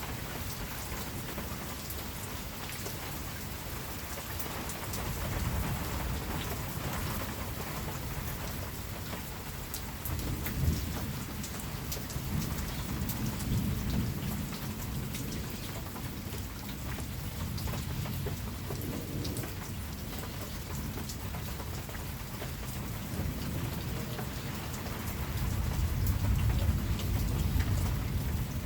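Steady rain falling on surfaces, with thunder rumbling low several times, loudest near the end.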